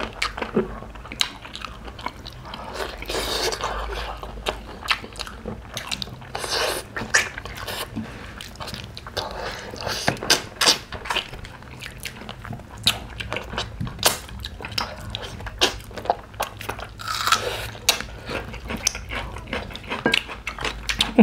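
Two people eating mutton curry and rice by hand: chewing and biting meat off the bone, with many short, irregular wet clicks.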